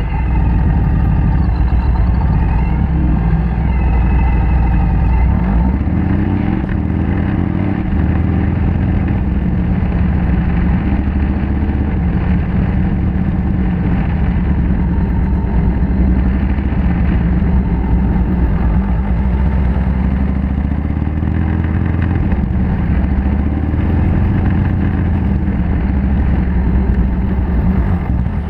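Motorcycle being ridden, its engine running steadily under way, with the pitch rising and falling slightly as the speed changes.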